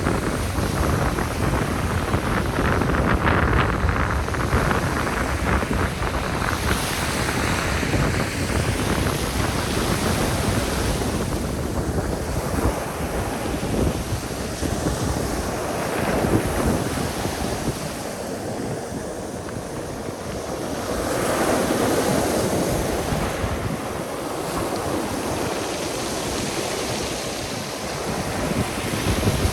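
Black Sea surf washing onto the shore, swelling and easing every few seconds, with wind buffeting the microphone.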